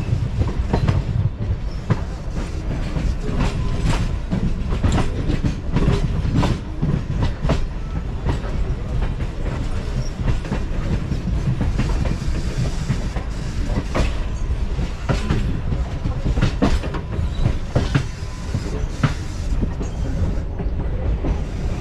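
Suburban electric local train running between stations, heard from inside the carriage: a steady rumble of wheels on track with frequent irregular clacks over the rail joints.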